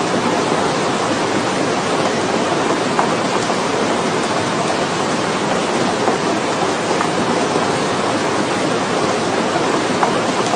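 Steady rushing noise of a sandstorm's strong wind, with a few faint ticks about three, seven and ten seconds in.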